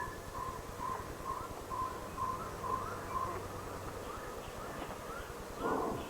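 A bird calling a steady series of short, single-pitched notes, about two a second, which stops a little over three seconds in. Near the end comes a brief, louder animal call.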